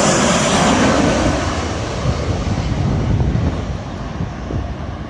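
Jet airliner on short final passing low overhead to land, its engine noise loud at first and fading away after the first second or two, with wind buffeting the microphone.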